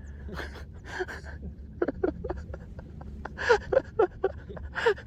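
Fabric rustling and clicks as a hoodie is pulled off over the head, with several short, breathy grunts, the loudest a little past the middle and near the end.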